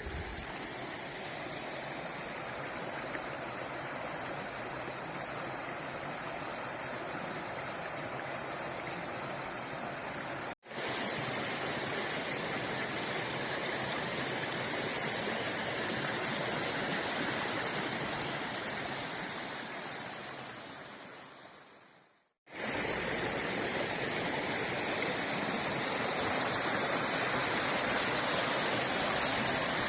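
Steady rush of a small river's flowing water. It breaks off for an instant about ten seconds in, and later fades out and comes straight back.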